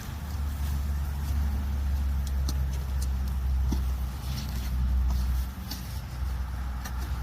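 A low steady rumble, easing slightly about five and a half seconds in, with scattered light clicks and knocks.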